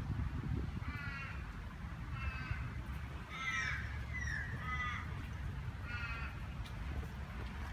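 Outdoor birdsong: a harsh, crow-like cawing call repeated five times, about a second and a bit apart, with short down-slurred whistled notes from another bird between them, over a steady low rumble.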